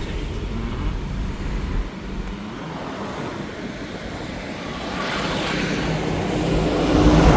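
Road traffic noise: a steady low rumble with wind-like rushing, and a vehicle engine growing louder from about five seconds in.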